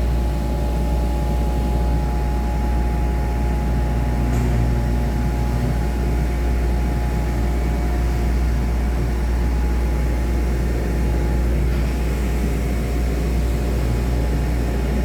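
Milling machine that carves scoliosis braces, running steadily: a constant low drone with several steady whining tones over it.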